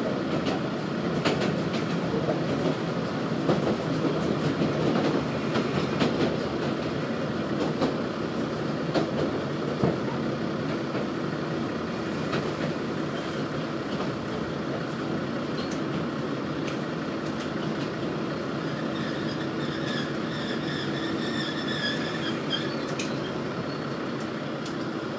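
Nagara Railway diesel railcar heard from inside, running over the rails with rumble and clicks at the rail joints. It then quiets as it slows, with high-pitched wheel and brake squeal through the second half as it pulls into a station.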